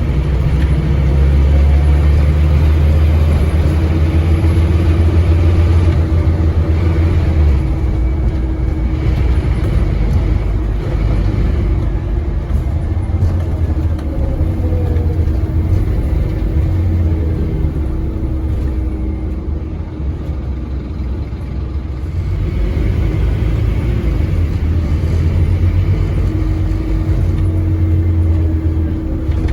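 Scania N230UD double-decker bus's diesel engine pulling hard under full throttle, revs held long in each gear by the ZF Ecomat automatic gearbox, with a steady whine alongside. The drone eases about seven seconds in and again near the end as the gearbox changes up.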